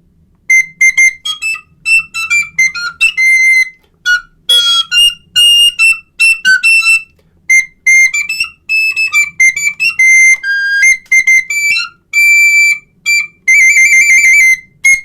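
A small, high-pitched recorder playing a quick run of short piping notes, with a trill near the end.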